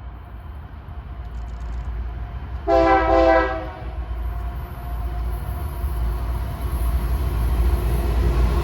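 Locomotive air horn sounds one short blast of about a second, a chord of several tones, while the rumble of an approaching train grows steadily louder.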